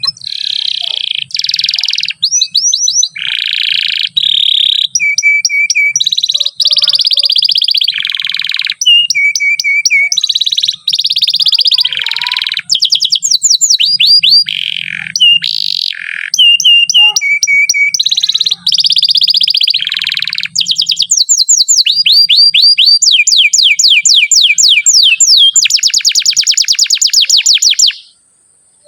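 Domestic canary singing a long, unbroken song of rolling trills, switching to a new trilled phrase every second or two. It ends in a long run of fast repeated notes and stops sharply near the end.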